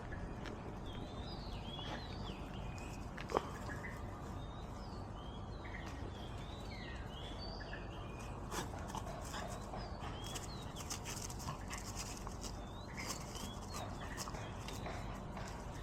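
Birds chirping in many short sliding calls over a steady low background rumble, with a French bulldog making sounds close by. A single sharp click comes about three seconds in.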